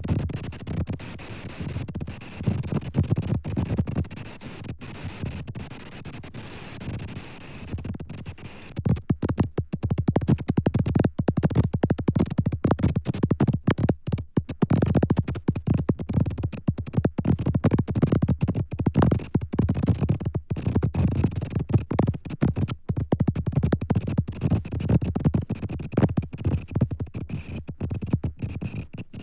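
Rumbling noise from the outdoor nest cam's microphone, heaviest in the low end with a faint hiss above. About nine seconds in it turns choppy, broken by many rapid dropouts.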